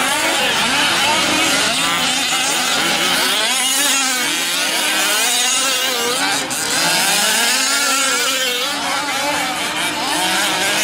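Several 1/5-scale RC trucks' small two-stroke engines racing, their overlapping whines rising and falling as they rev and ease off.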